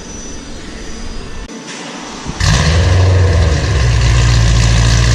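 BMW E92 M3's V8 starting up through a straight-piped, decatted Armytrix valved exhaust. The engine catches suddenly about two and a half seconds in, its revs flare briefly, then it settles into a loud, steady idle.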